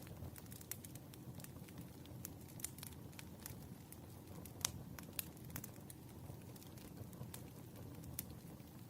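Wood fire burning in a fireplace: sharp, irregular crackles and pops over a low steady rumble, with one louder pop a little past the middle.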